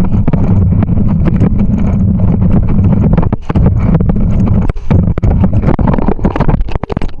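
Wind buffeting the microphone during a bike ride, a loud low rumble, with a rapid string of knocks and rattles from the ride.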